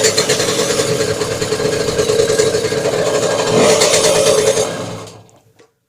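Delta 50cc moped engine running with a rapid knocking clatter, the unidentified knock that the owner is asking about, then shut off about five seconds in and dying away.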